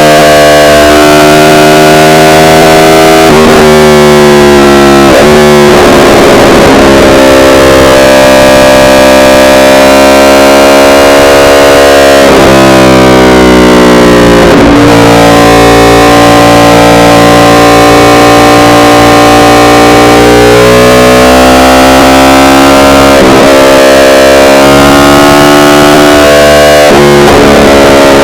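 Yamaha R1's inline-four engine pulling at steady revs, with several quick dips and climbs in pitch as the rider changes gear. The recording is so loud that it distorts.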